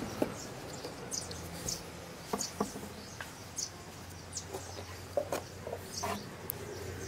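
Small birds chirping in short, high, irregular notes in the background, with a few light knocks from pipe fittings being handled on a wooden table.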